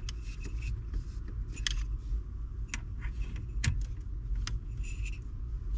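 Scattered metallic clicks and clinks of hand tools and parts being handled while a steering column is taken apart, over a steady low hum.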